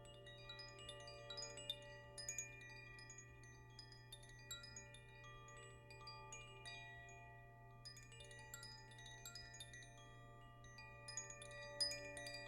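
Faint chimes ringing in an irregular, random tinkle of many high struck notes that ring on, over a steady low drone.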